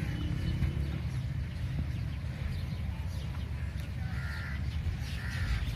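Two short bird calls about a second apart near the end, over a steady low rumble.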